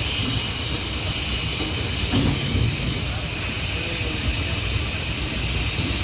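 Steam locomotive hissing steadily as steam escapes, over a low rumble.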